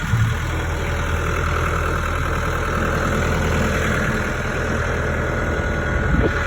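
McCormick X1.45 45-horsepower diesel tractor engine idling steadily, with a brief thump just after the start.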